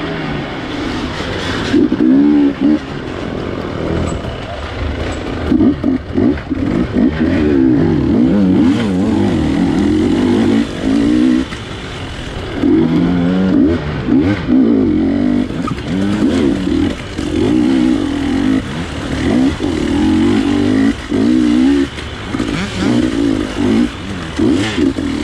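A 250 dirt bike engine revving up and down over and over as the throttle is opened and closed, its pitch rising and falling, with short drops in loudness between surges.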